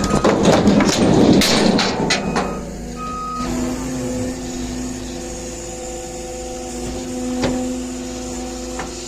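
A heavy vehicle backing up: its reversing alarm beeps over a running engine and clanking during the first three seconds or so, the last beep about three seconds in. After that a steady engine hum runs on, with one sharp knock about seven and a half seconds in.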